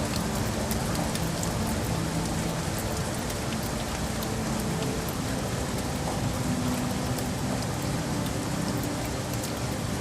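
Steady rain falling, a dense even hiss with scattered small drop ticks, over a faint steady low hum.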